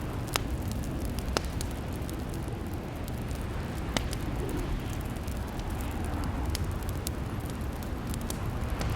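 Fireplace fire crackling: a steady low rumble of burning with scattered sharp pops, three louder ones in the first four seconds.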